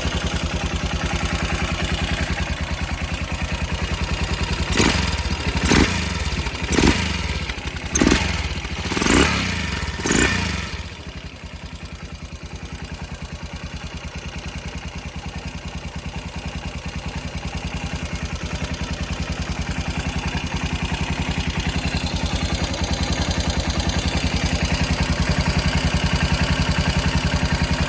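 Yamaha SR400 single-cylinder engine, built up with a 500 crankshaft, German-spec piston and Keihin FCR39 carburettor, idling. From about 5 to 10 seconds in the throttle is blipped six times, each rev falling straight back. It then settles to a steady idle that grows slightly louder toward the end.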